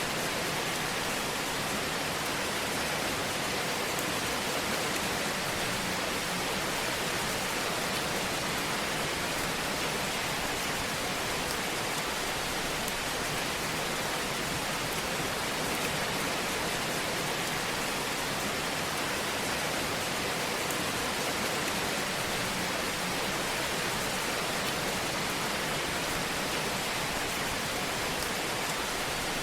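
Wood fire in a fireplace crackling steadily: a dense, even hiss of small crackles.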